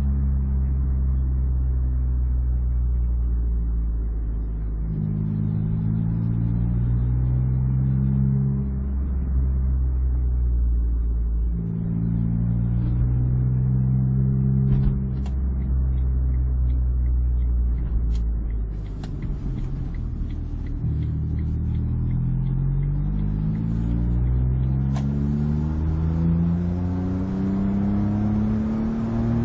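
Smart's turbocharged three-cylinder engine through an aftermarket XSP exhaust, its revs rising and dropping back in steps several times, with a long rise near the end. A few sharp clicks in the second half.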